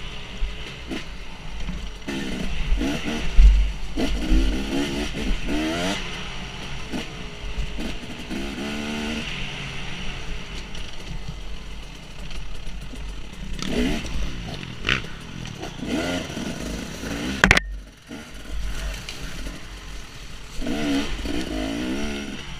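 Dirt bike engine revving up and down as the throttle is worked on a trail ride, with wind rumbling on the microphone. A sharp knock sounds near the end.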